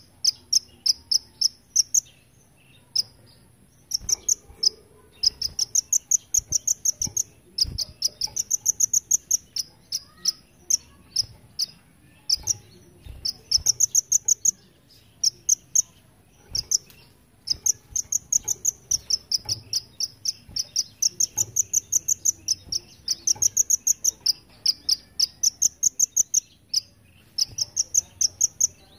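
Kolibri ninja, a small sunbird, singing repeated high, rapid pulsing trills in the insect-like 'belalang emas' (golden grasshopper) style, each trill a second or two long, with short sharp chips in between.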